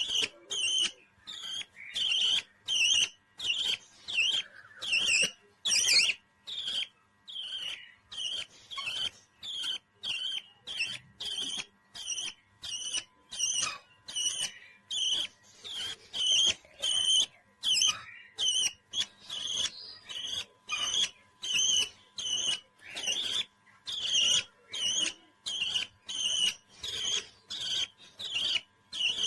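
A parrot calling over and over in short, high, evenly spaced chirps, about two a second.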